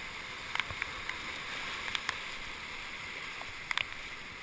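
Kaweah River whitewater rushing past a raft in a steady hiss, with a few light taps and splashes.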